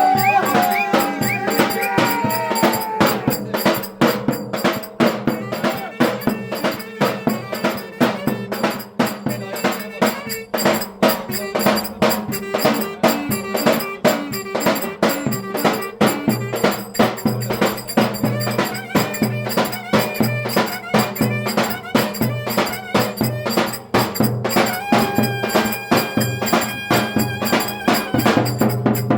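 Turkish folk dance music (oyun havası) with a steady, driving drum beat and a melody line that comes and goes, played for dancing at a village wedding.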